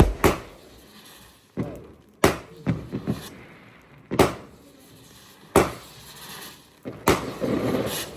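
Fireworks exploding overhead: a string of sharp, separate bangs, each followed by a short echoing tail, coming every half second to second and a half, with a longer rushing stretch about seven seconds in.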